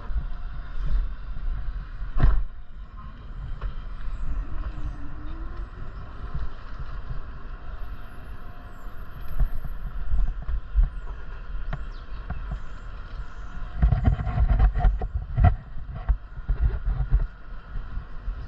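A vehicle driving, a steady low rumble with faint steady hum, broken by a sharp knock about two seconds in and a run of knocks and thumps near the end.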